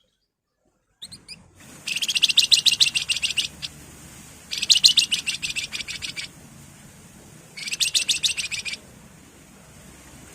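Wergan jawa (flamboyan) songbird calling in three bursts of fast, rapidly repeated high notes, each one to two seconds long, after a few short opening notes.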